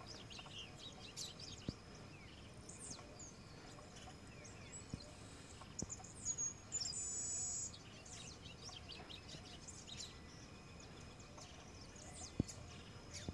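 Small birds chirping and twittering, short high falling calls throughout. A little past the middle, a loud, high, steady buzz lasts about a second and a half, and a few sharp clicks come through, the loudest near the end.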